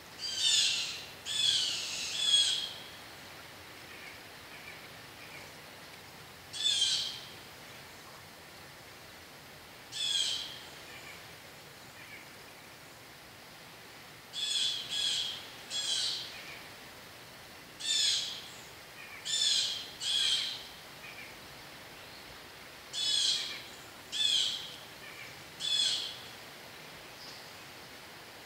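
A bird calling: short, high-pitched calls of about half a second each, given singly and in twos and threes, about fourteen in all, over a faint steady background noise.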